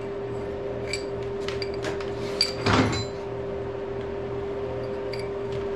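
Hand tools being shifted and picked through while searching for a wrench: a few light metal clicks and a louder rattling scrape about three seconds in, over a steady shop hum.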